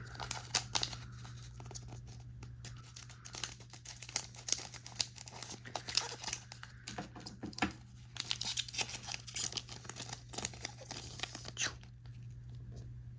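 Foil trading-card booster pack wrappers tearing open and crinkling, with dense rustling and sharp ticks from the handled packs and cards, until the rustling stops about a second before the end. A steady low hum runs underneath.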